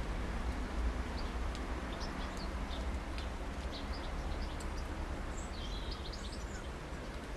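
Small garden songbirds giving short, high chirps and twitters, with a run of quick sweeping notes near the end, over a steady low rumble.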